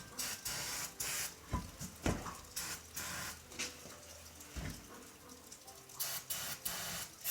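Aerosol can of starter fluid spraying in repeated short hissing bursts into the tire's bead gap, with a few dull knocks in between.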